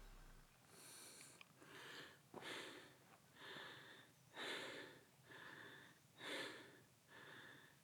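A man panting heavily into the microphone, drawing loud, ragged breaths about once a second, out of breath from climbing in thin mountain air.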